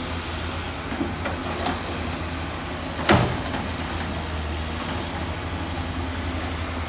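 Heavy diesel machine engine running steadily, with a couple of light knocks and then one loud sharp knock about three seconds in.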